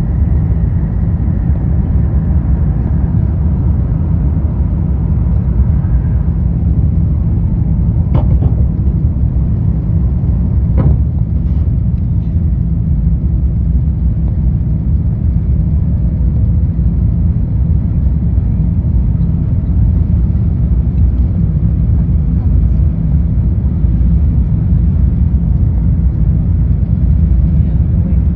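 Cabin noise of an Airbus A350-1000 on takeoff: the steady, heavy low rumble of its Rolls-Royce Trent XWB engines and airflow, with two sharp knocks about a third of the way through.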